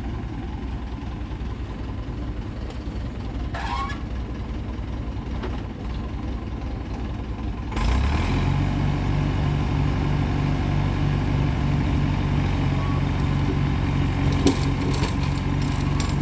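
Tractor and truck engines running in a low drone; about eight seconds in, an engine suddenly comes up to a louder, steady higher-power note and holds it, as the vehicles work under load to pull the stuck truck and trailer out of the mud.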